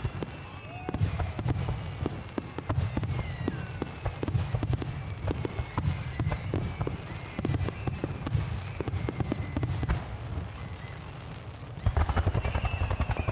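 Aerial fireworks display: shells bursting in repeated low booms with many sharp crackles, getting denser and louder about twelve seconds in.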